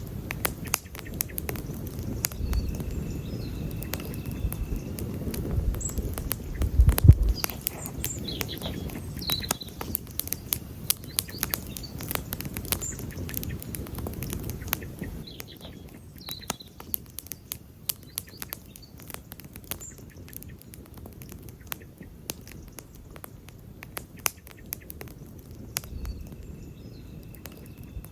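Wood campfire crackling and popping: many irregular sharp snaps over a low rumble, with a louder low thump about a quarter of the way in. The rumble eases about halfway, and a few faint bird chirps sound in the background.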